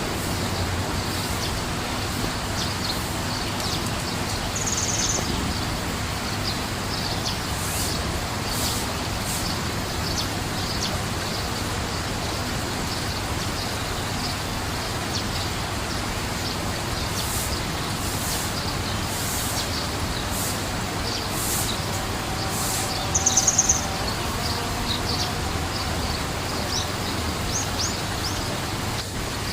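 Small birds chirping and twittering in short high calls, with a quick trill about five seconds in and another later on, over a steady rushing background noise.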